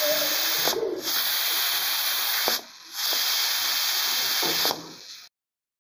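Steam hissing steadily from a pot of corn on the boil, dipping briefly twice and cutting off suddenly near the end.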